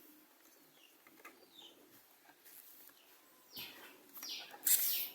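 Birds chirping: a few faint short chirps, then from about three and a half seconds in a quick series of loud, short, falling high-pitched calls.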